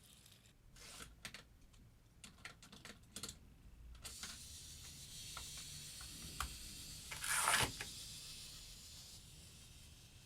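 Light clicks and taps of a die-cast Hot Wheels car being handled on plastic track. Then, from about four seconds in, a faint rolling hiss, with one brief louder clatter a little past halfway.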